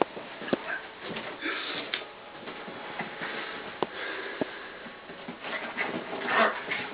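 Two puppies play-fighting: rough breathing and scuffling, with scattered sharp clicks.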